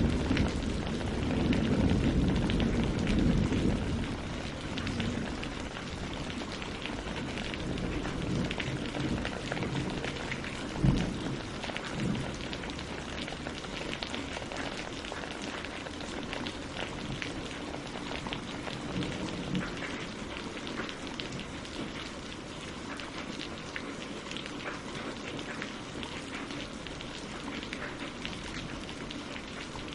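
Steady rain falling on tree leaves and lake water, a dense patter of drops. A low rumble in the first few seconds fades away, and a single louder knock comes about eleven seconds in.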